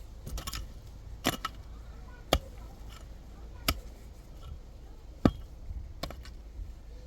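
Sharp chopping blows at an uneven pace, about one every second or so, with some struck in quick pairs.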